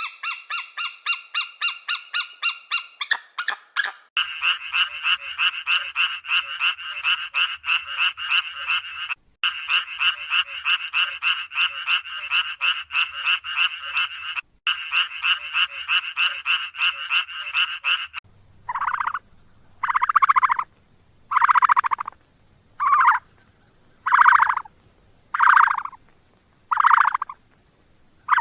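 Repeated animal calls: a fast run of chirping pulses, several a second, broken by two brief gaps, then from about eighteen seconds in, slower separate calls a little over a second apart.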